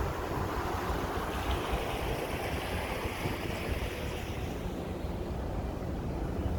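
Steady wind rushing across an open cruise-ship deck, with low buffeting on the microphone over the wash of the sea.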